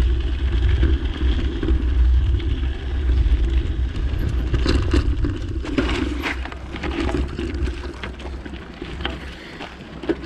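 Bicycle riding over bumpy ground: a steady low rumble with frequent rattling clicks from the jolts. It grows quieter over the last few seconds.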